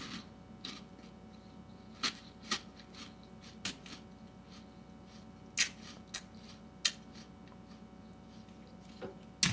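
Scattered crisp crunches of someone chewing cereal, about seven short irregular crunches over the first seven seconds.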